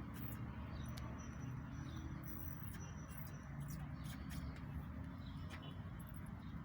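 Faint high chirps and squeaks from rooftop poultry, with a few light clicks, over a steady low rumble.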